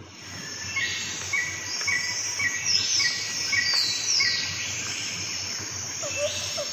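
Birds calling over a steady high hiss: a short chirp repeated about twice a second, several falling whistled notes, and a lower call repeated about three times a second that starts near the end.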